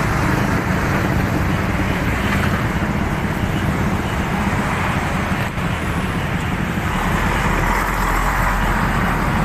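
Steady din of motorcycle engines running, heard as a continuous rumble without distinct revs or bangs.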